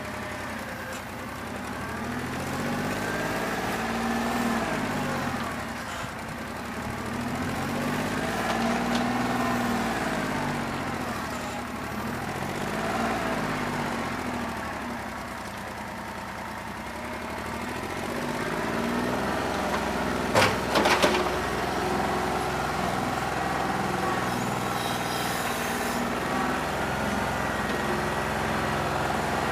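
New Holland 1320 compact tractor's three-cylinder diesel engine running, its speed rising and falling again and again. It is missing with a bad injector, running on only about two and a half cylinders. A few sharp metallic knocks come about two-thirds of the way through.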